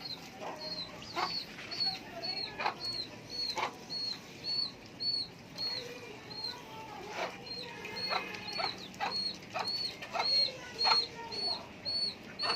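Farmyard birds calling: a steady run of high, short peeps, about two or three a second, with louder short calls scattered between them.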